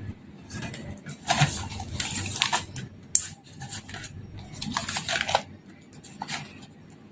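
Household containers and grocery packages clattering and rustling in a series of irregular handling sounds as groceries are put away.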